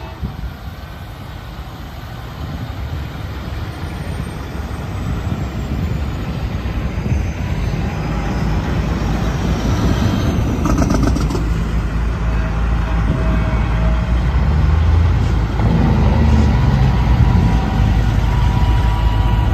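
Heavy vehicle approaching, its deep rumble growing steadily louder.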